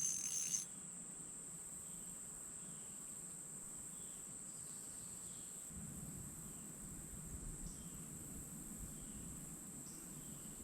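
Steady high-pitched drone of insects, one unchanging tone. A brief louder noise at the very start, and a faint low rumble comes in about six seconds in.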